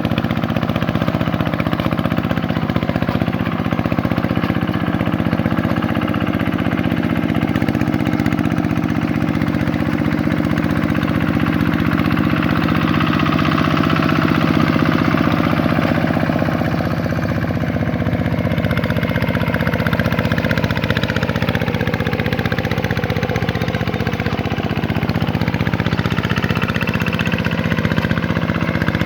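Single-cylinder diesel engine of a Vikyno RV125-2 two-wheel hand tractor running steadily while working a paddy field, with slight rises and falls in speed.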